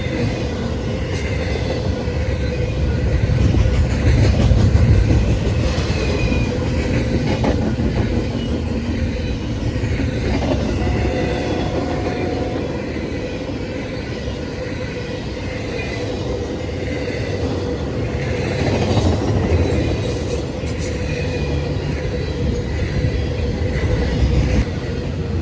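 Freight train rolling past, a continuous rumble of railcars on the track with a steady thin whine running through it.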